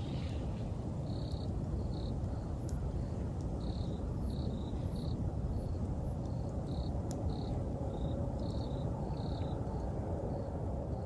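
Campfire burning with a steady low rush and a few sharp crackles. Autumn insects, crickets, chirp in short high pulses about twice a second.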